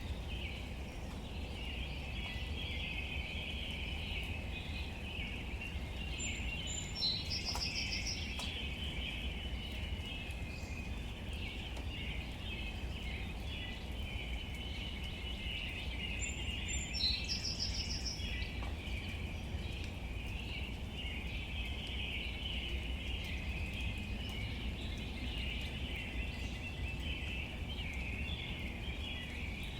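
Outdoor nature ambience: a steady high chirring chorus over a low rumble. A bird gives a short high trill three times, about ten seconds apart.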